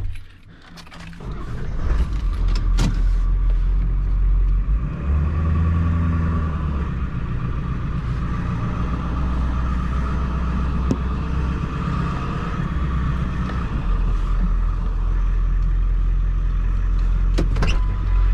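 Tractor engine running steadily under load, starting up loudly about a second in and getting heavier twice, with a few sharp knocks near the end.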